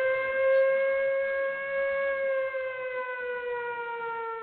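Warning siren sounding one long wail that rises slightly, holds, then slowly falls in pitch and grows quieter near the end.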